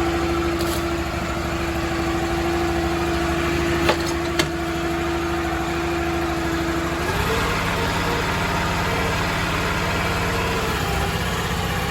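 Crawfish boat engine running steadily, then revving up to a higher pitch about seven seconds in. Two sharp clicks around four seconds in.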